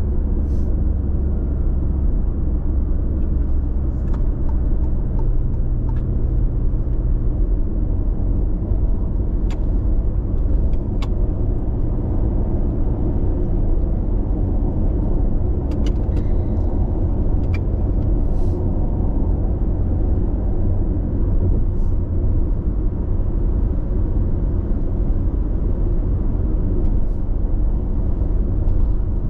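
Steady road noise of a car cruising on an expressway, heard inside the cabin: a constant low rumble of tyres and engine with a few faint ticks.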